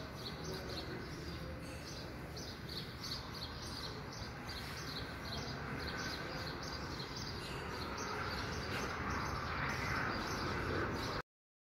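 A bird chirping over and over, about two short calls a second, over steady background noise; the sound cuts off abruptly near the end.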